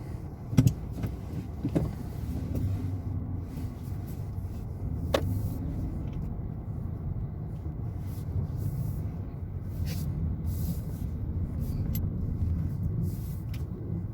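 Inside a car's cabin: a steady low engine and road rumble as the car drives, with a sharp knock about half a second in and a couple of lighter knocks shortly after.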